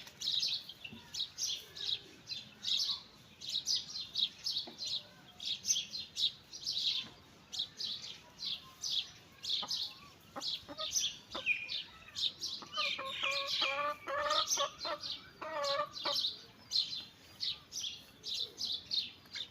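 Chickens calling: a steady stream of short, high chirps throughout, with a run of lower clucking calls about two-thirds of the way in and a few sharp taps among them.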